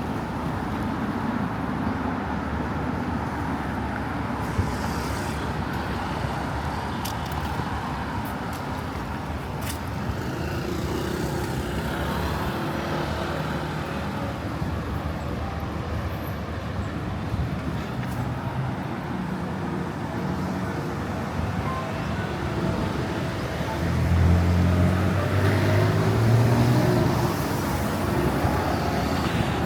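Steady city street traffic noise from passing cars and motorbikes. About 24 seconds in, a heavier vehicle's engine passes close and grows louder for a few seconds before easing off.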